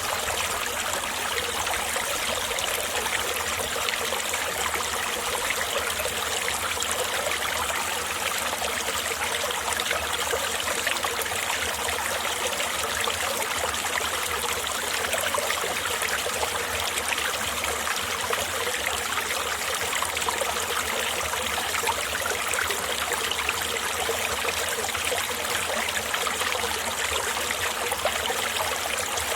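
Mountain valley stream flowing, a steady, even rush of running water.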